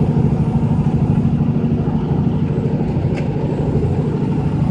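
Heavy truck's diesel engine running steadily, heard inside the cab while cruising on the highway.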